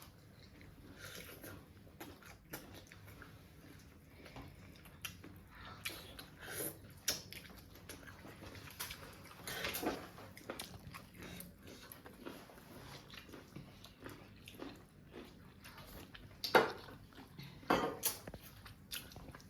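A person eating: chewing and biting food, with soft scattered mouth clicks and crackles. Two sharper knocks come near the end.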